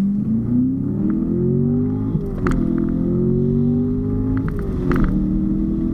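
Corvette Grand Sport's V8 accelerating through the gears of its manual gearbox: the engine note climbs, drops at an upshift about two seconds in, climbs again, and drops at a second upshift near the end before pulling on. Two short sharp clicks come right at the shifts.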